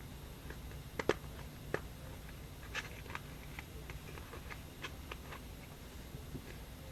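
Fingers picking stuck modelling dough out of its plastic tub: scattered light clicks and taps, two sharper ones close together about a second in, over a faint steady low hum.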